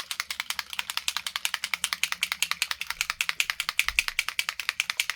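A bottle of Pro-Line RC body paint being shaken hard to mix it, rattling in a fast, steady rhythm of about ten shakes a second.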